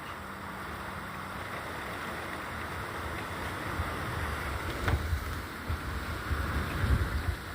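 Thunderstorm wind and rain: a steady rushing noise, with gusts buffeting the microphone in low, irregular rumbles that grow stronger from about four seconds in.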